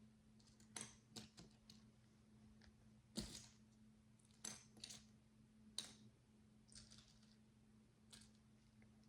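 Micro bricks (miniature plastic building bricks) clicking and tapping as they are picked up and pressed together: scattered light clicks at an uneven pace, with a sharper one about three seconds in. A faint steady low hum runs underneath.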